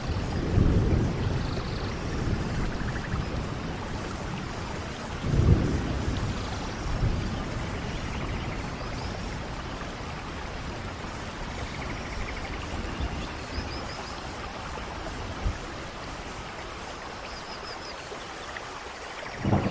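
Steady rainforest rain with thunder rumbling. There is a loud rumble about five and a half seconds in and another swells up right at the end. Faint high chirps sound now and then through the rain.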